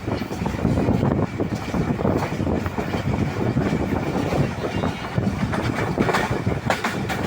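A train running fast: a steady rumble with dense rattling and clatter, and a few sharper clicks near the end.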